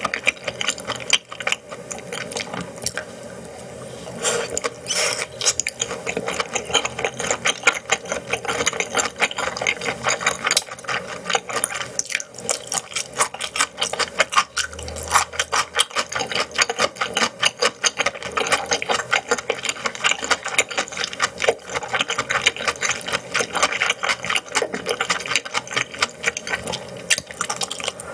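Close-miked chewing and mouth sounds of a person eating, a dense, irregular run of small wet clicks and smacks.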